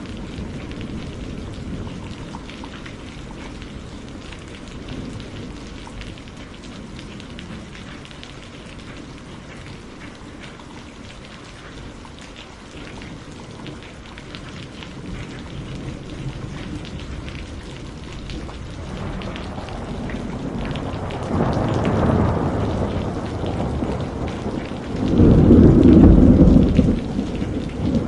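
Steady rain with thunder: a low rumble builds from about two-thirds of the way in and swells to its loudest near the end.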